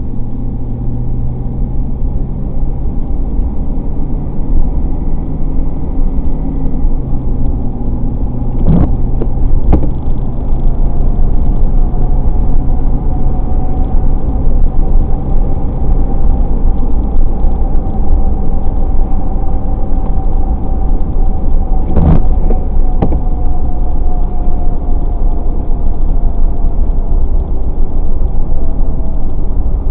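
Car driving on a wet highway, heard from inside the cabin: a steady rumble of road noise with the engine's hum, which drops in pitch about seven seconds in. A few sharp knocks come twice, around nine and twenty-two seconds in.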